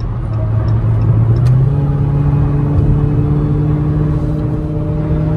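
Dodge Charger Scat Pack's 392 Hemi V8 running at cruise with steady road rumble. The engine note rises about a second and a half in, then holds steady.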